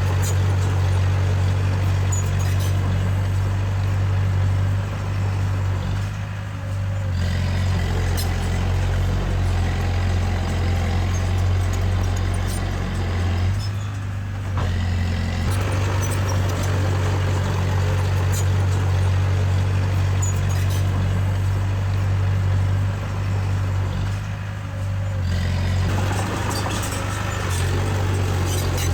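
Komatsu D20A crawler bulldozer's diesel engine running steadily under load as it pushes soil, easing off briefly three times, with faint clinks over the drone.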